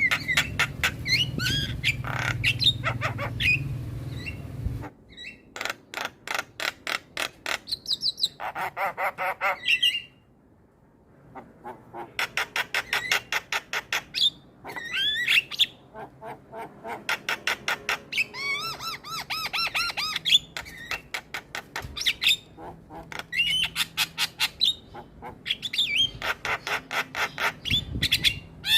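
Mynas chattering in bouts: fast rattling runs of clicks mixed with whistled glides and harsh squawks. A low hum sits under the first few seconds, and there is a short quiet gap about a third of the way in.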